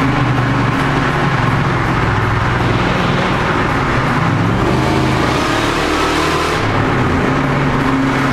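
Engines and exhausts of a Ford Lightning pickup and two Ford Mustangs running hard through a road tunnel, the sound echoing off the tunnel walls, with a swell of louder, harsher noise about halfway through.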